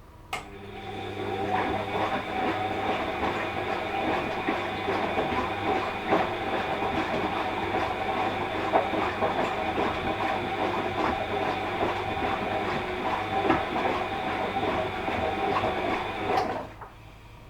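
Washing machine running a stretch of its wash cycle: the drum turns with a steady motor hum and a dense clattering rattle. It starts with a click just after the start and cuts off suddenly near the end, leaving a low hum.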